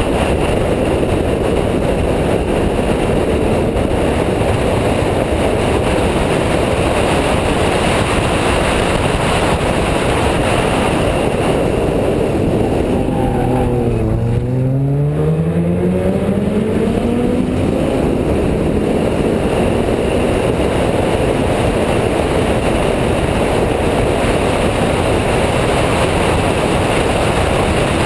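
Renault Mégane R26.R's two-litre turbo four-cylinder at track speed, heard from an onboard camera as a loud, steady rush of engine and road noise. About halfway through, the revs drop as the car brakes for a hairpin, then climb steadily for several seconds as it accelerates out.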